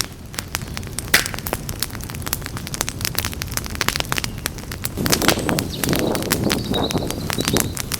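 Campfire crackling, with many sharp pops and snaps of burning wood over a low rumble of flames that grows louder about five seconds in. A faint high whistle sounds briefly near the end.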